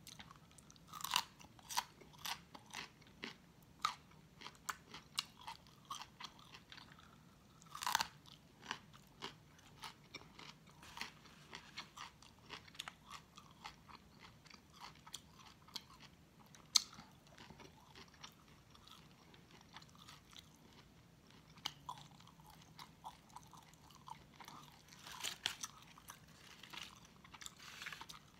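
Close-miked crunching and chewing of raw cauliflower florets: bursts of sharp, crisp crunches with quieter chewing between them. The crunching is thickest about a second in, around eight seconds in and near the end.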